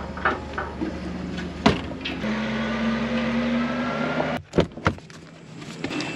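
A motor running with a steady hum that cuts off abruptly about four seconds in, followed by a few sharp knocks.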